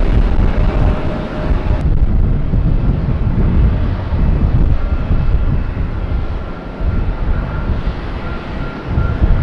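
Jet airliner's engines on landing approach: a loud, continuous low rumble with a faint steady whine above it.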